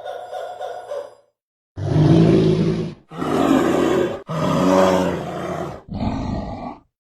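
A large animal roaring: four long, low roars with short breaks between them, starting about two seconds in after an earlier animal call cuts off.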